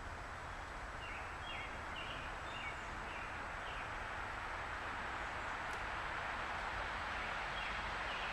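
Steady outdoor background noise that grows slowly louder, with a bird giving a run of short chirps about one to three seconds in.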